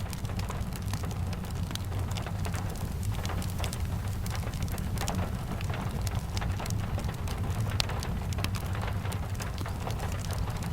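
Steady rain over a low, even rumble, with many small sharp ticks scattered irregularly through it, layered with a fireplace crackling.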